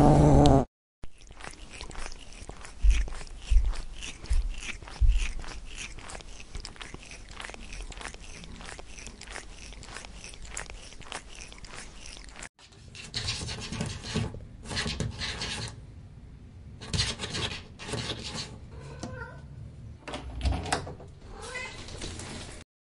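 A string of domestic cat sound-effect clips: the last moment of a growl, then a long stretch of soft, crackly clicking with a few low thumps. About halfway through this cuts to a second clip of short irregular bursts with a few faint cat cries near the end.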